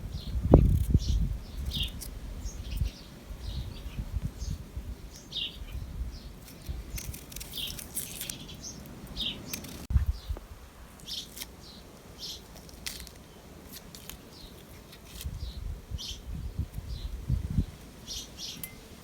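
Small birds chirping in short, high calls scattered through. Low rumbling thuds come near the start and again near the end.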